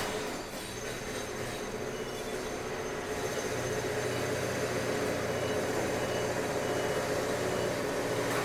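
Construction machinery running steadily: a continuous mechanical drone with several held humming tones over a rough noise, joined by a deeper hum about three and a half seconds in.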